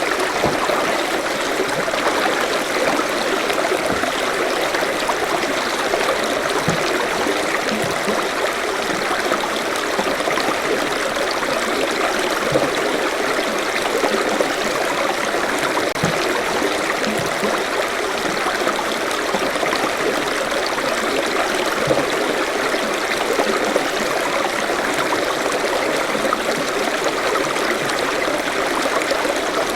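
Forest stream running: a steady rush and babble of flowing water over stones, with small splashes and gurgles scattered through.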